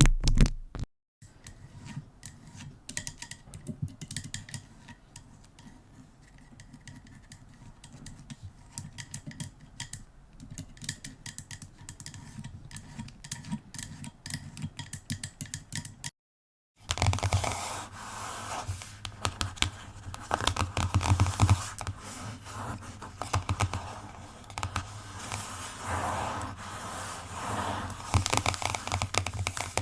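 Close-miked scratching and quick tapping sounds, many small clicks in a dense run. After a brief break about 16 seconds in, they come back louder and fuller.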